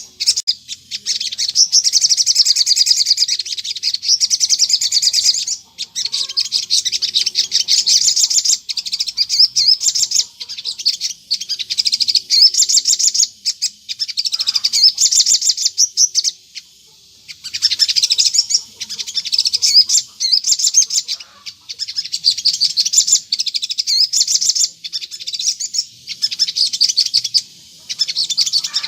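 Crimson sunbird (sogon) singing a rapid, high-pitched chattering song, delivered continuously in phrases of a few seconds with brief pauses between them.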